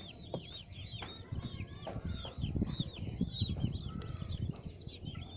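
Young chicks peeping continuously, many short high arched peeps overlapping one another. Low rustling and knocking from handling runs underneath, strongest in the middle.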